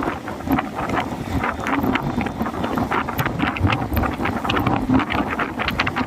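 Storm wind blowing hard across the microphone, a gusty low rumble with crackling buffets.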